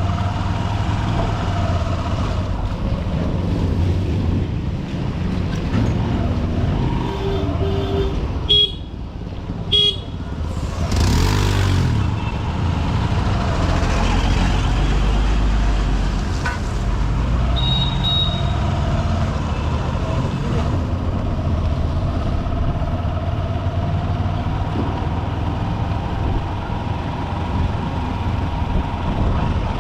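Honda SP125 motorcycle's single-cylinder engine running through dense city traffic, with the rumble of surrounding vehicles. Short vehicle horn toots sound about eight to ten seconds in and again near eighteen seconds, and a brief rush of noise passes around eleven seconds.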